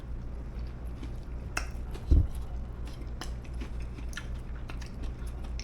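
Mouth chewing breaded buffalo cauliflower wings, with scattered small crunching clicks and one dull low thump about two seconds in, over a steady low hum.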